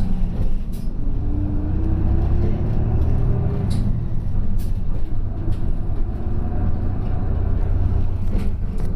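Route bus driving, heard from inside the cabin: a steady low engine and road rumble, with the engine note rising as the bus picks up speed in the first few seconds. A few sharp rattles come through.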